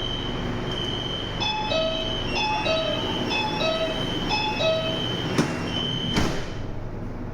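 Metro train door-closing warning: an electronic chime of short repeating beeps over a steady high tone, then two thuds about five and a half and six seconds in as the doors shut, leaving the train's steady rumble.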